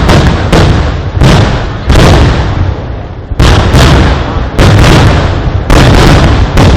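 A rapid, loud string of firework explosions, one blast following another about every half second, with a brief lull about two and a half seconds in before the barrage resumes.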